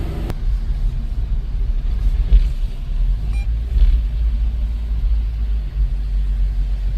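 Steady low rumble of a moving car heard from inside the cabin of a Honda S2000, engine and road noise while driving on the expressway.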